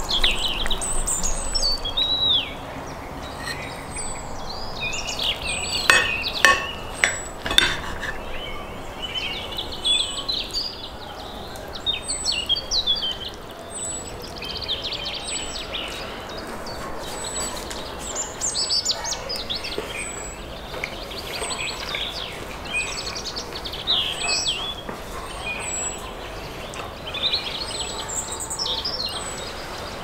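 Several songbirds singing and chirping, with one short high note repeating about once a second through the middle. A few sharp clinks come about six to eight seconds in.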